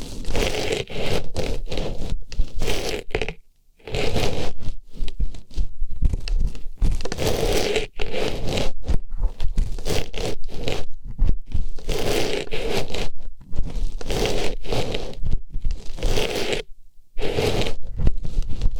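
Artificial flower pushed into and rubbed inside a microphone's ear: close, scratchy rustling and scraping strokes in irregular bursts. They break off briefly about three and a half seconds in and again near the end.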